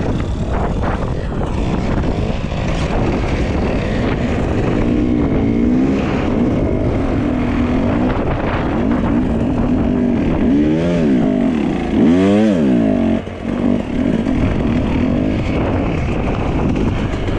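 Dirt bike engine under way, its revs rising and falling repeatedly over a heavy, steady rushing noise. A sharp rev-up about twelve seconds in is followed by a quick drop as the throttle comes off.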